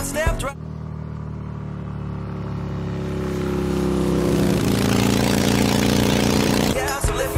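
A motorcycle engine running at steady speed as it approaches, getting steadily louder, then cutting off abruptly about seven seconds in. A song is heard briefly at the start and resumes at the end.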